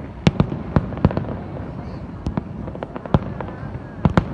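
Fireworks going off: many sharp bangs at uneven intervals over a steady background rumble, a quick cluster about a third of a second in and another near the end.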